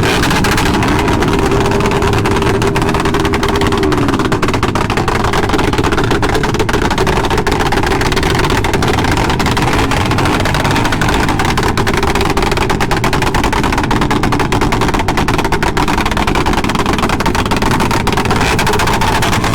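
Motorcycle engines running, loud and continuous, with a fast rattle of exhaust pulses.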